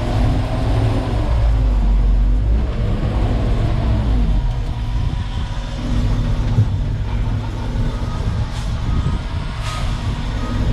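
Diesel engine of a Terex FD4000 front-discharge concrete mixer truck running at low speed, heard from the cab, its pitch rising and falling briefly about four seconds in. A faint regular beeping starts about eight seconds in, and two short hisses come near the end.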